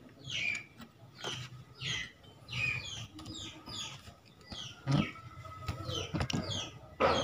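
A small bird chirping over and over in short falling chirps, about two a second, with a few knocks of handling in between.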